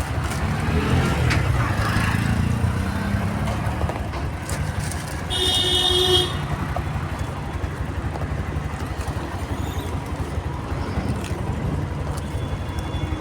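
A motor vehicle running steadily with road noise, and a horn sounding once for about a second, about five seconds in.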